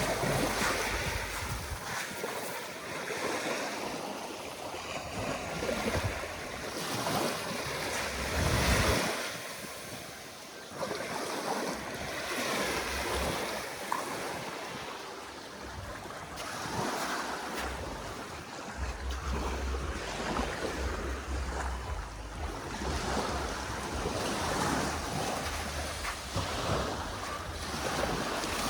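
Waves washing onto a sandy beach, the surf swelling and ebbing every few seconds, with wind buffeting the microphone as a low rumble.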